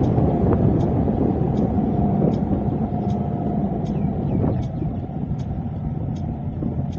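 Car driving in city traffic: a steady rumble of road and engine noise that eases off a little past the middle, with a faint, regular tick about every three-quarters of a second.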